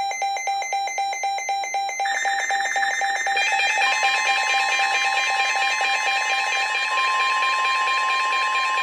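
Several weather-radio receivers sounding their alert beeps together, each in its own pulsed pattern, with more joining about two and three seconds in. About four seconds in, the NOAA Weather Radio's steady warning alarm tone near 1 kHz starts under them, signalling an incoming severe thunderstorm warning.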